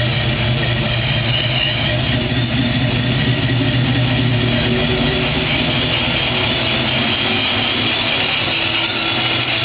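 A 1994 Ford Mustang GT's 5.0 L V8, newly fitted with a Vortech S-Trim supercharger, idling steadily on its first start.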